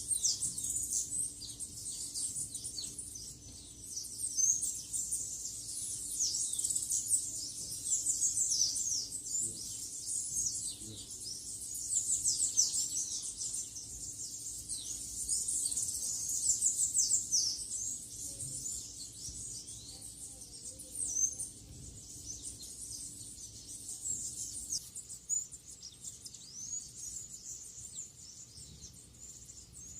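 Many small birds chirping and twittering together, a dense stream of quick, high-pitched overlapping notes. A faint steady low hum runs underneath until near the end.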